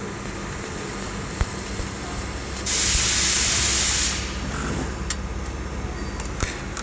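A steady, even hiss starts suddenly a little under three seconds in and stops about a second and a half later, over a constant low hum, followed by a few short clicks.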